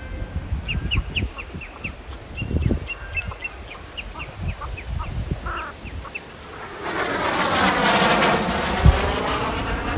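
Birds calling in short, repeated sharp notes, with wind buffeting the microphone. From about seven seconds in, an aircraft passing overhead grows loud and covers the calls.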